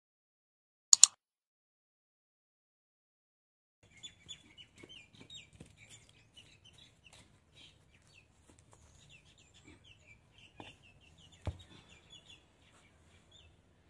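Birds chirping in many quick, short calls, with two sharp clicks about a second in and a single knock late on.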